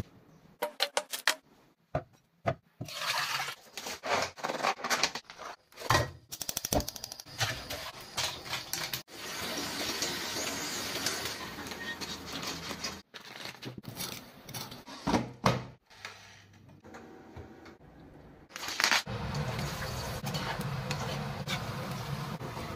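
Kitchen food-preparation sounds cut together: short clinks, knocks and scrapes of dishes and utensils, with two longer stretches of steady rushing noise, one about nine seconds in and one about nineteen seconds in.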